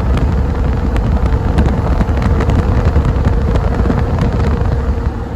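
Dodge Ram pickup truck driving with a loaded gooseneck trailer in tow, heard from the cab: a steady engine and road rumble with a constant hum, wind noise and scattered light ticks.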